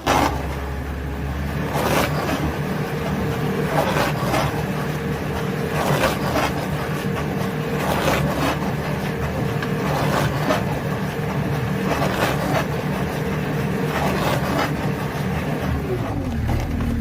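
Heavy stump-removal machine's engine running steadily under load, with a scraping crunch about every two seconds as its head works the stump. Near the end the engine note drops.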